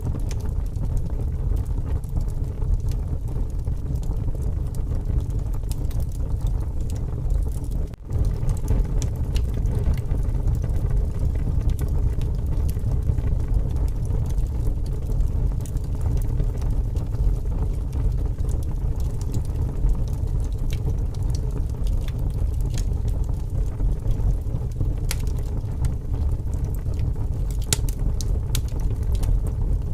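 Wood fire crackling with scattered sharp pops over a steady low rumble of strong wind. The sound briefly drops out about eight seconds in.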